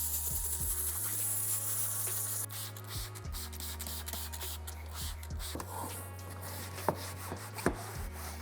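Rubbing and scrubbing of car interior surfaces being cleaned by hand, over background music with a low bass line that changes note every second or two. A few sharp clicks come near the end.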